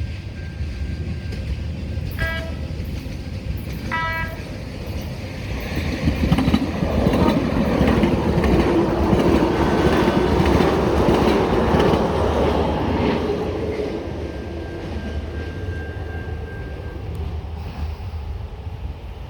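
Siemens S700 light-rail trolley sounding two short horn blasts, then passing with a rumble of wheels on rail and a steady motor hum that builds, holds for several seconds and fades away.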